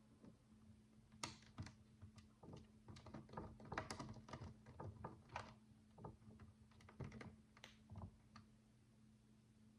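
Miniature plastic building bricks (micro bricks) clicking and rattling in quick, irregular taps as they are handled and pressed together, stopping about a second before the end.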